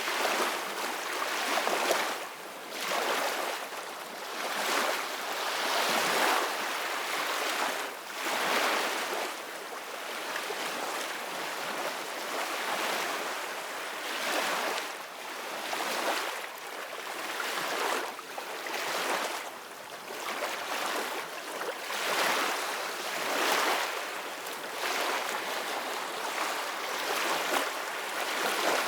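Ocean waves breaking and washing onto a shore, a continuous surf wash that swells and ebbs every second or two.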